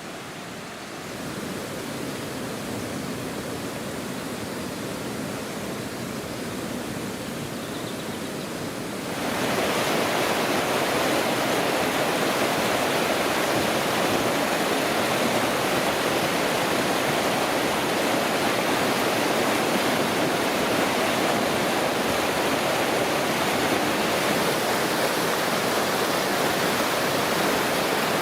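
Steady rush of flowing water, like a fast stream or small waterfall, with no distinct splashes. About nine seconds in it becomes clearly louder and fuller and then holds steady.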